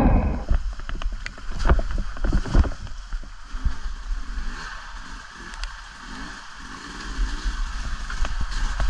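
Off-road motorbike riding on a muddy trail: a low rumble with faint engine pitch rising and falling, and scattered knocks and clatters.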